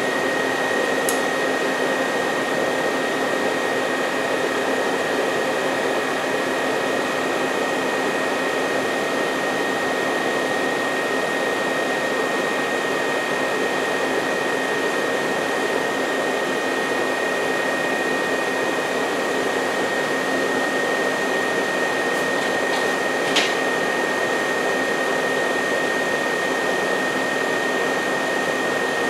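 Rebuilt 350 small-block Chevrolet V8 idling steadily, a constant whooshing run with a steady high whine over it. A sharp click comes late on.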